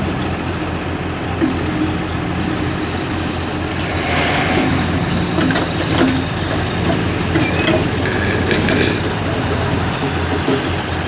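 Diesel engine of a JCB backhoe loader running steadily, with scattered clanks and knocks and a brief hiss partway through.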